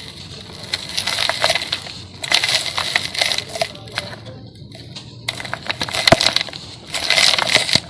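Dry sand-cement chunks being crumbled, in four crackling bursts dotted with sharp little cracks, each lasting about one to two seconds with short pauses between.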